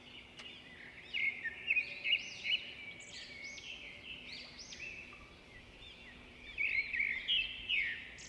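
Birds chirping: many short, overlapping rising-and-falling calls, louder in two spells early and late, over a faint steady hum.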